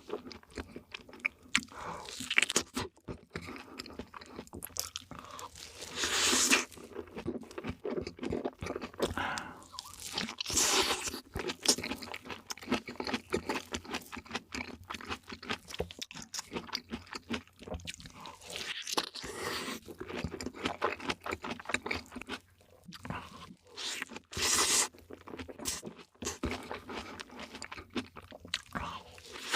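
Close-miked eating of cake: biting and chewing with crunching, in irregular bursts, several of them louder and longer.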